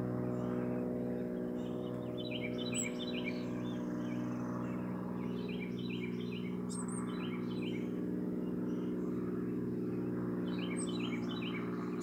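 A songbird singing three phrases about four seconds apart, each a sharp high note followed by a quick run of repeated lower notes, over a steady low mechanical hum.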